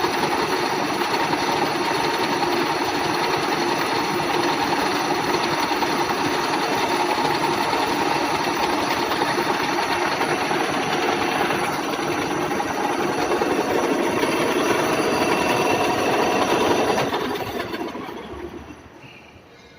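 WMW Heckert GFLV 250 x 2000 thread milling machine running: a steady mechanical clatter with a few held tones. The sound dies away over a couple of seconds near the end.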